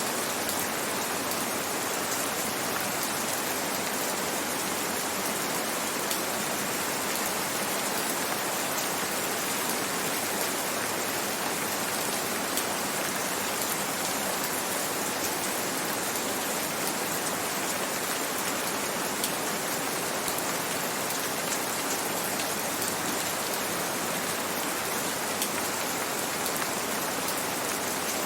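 Steady gentle rain falling, an even hiss dotted with fine raindrop patter.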